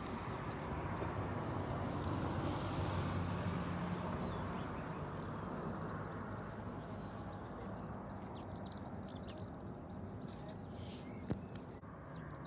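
Aircraft noise slowly fading into the distance, with birds chirping faintly from about seven seconds in.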